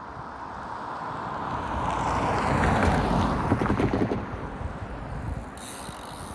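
A vehicle passing by, swelling to a peak about three seconds in and fading away, with wind on the microphone.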